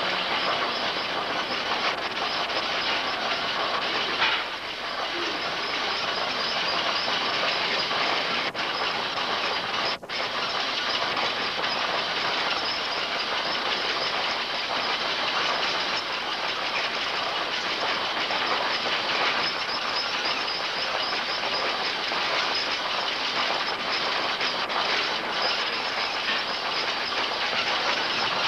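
Stationary steam engines and reciprocating steam pumps running steadily, a dense, even mechanical noise with a brief drop about ten seconds in.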